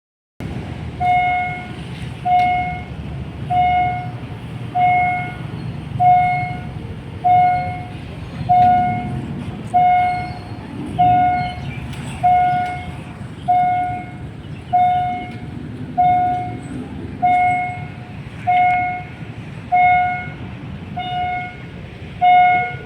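Train rumbling past at close range, with an electronic warning tone beeping evenly over it, about once every 1.25 seconds.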